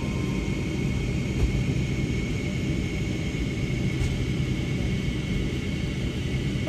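Steady low rumble of a Boeing 757-300 airliner heard from inside the cabin, engines running while on the ground, with a faint high steady whine over it.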